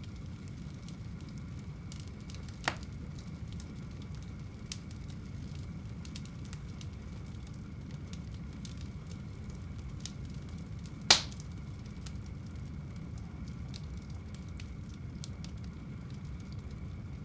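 Wood fire burning in a home fireplace: a steady low rumble of flames with faint crackles, a sharp pop about three seconds in and a louder pop near the middle.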